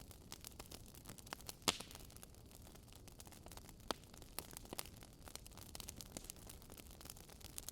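Burning wood fire crackling: irregular sharp pops and snaps over a soft steady hiss, with the loudest pops about one and a half and four seconds in.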